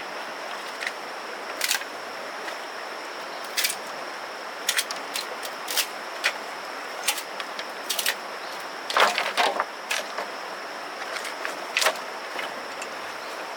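Irregular sharp knocks and clacks, one every second or two, with a quick cluster about nine seconds in, over a steady hiss and a constant high tone.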